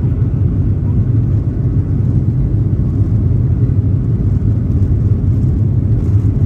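Jet airliner's engines and airflow during takeoff, a steady, loud low rumble with no change in pitch.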